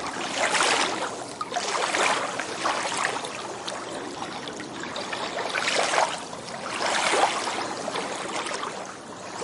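Small waves washing onto a sandy shore, the sound swelling and fading with each wash.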